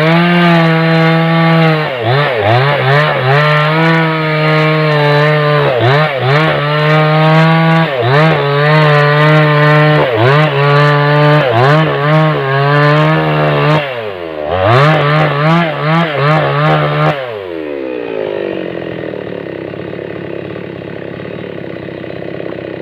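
Small two-stroke chainsaw at full throttle cutting through a log, its revs dipping again and again as the chain bites into the wood. About 17 seconds in, the throttle is let off and the engine winds down to a lower, steady idle.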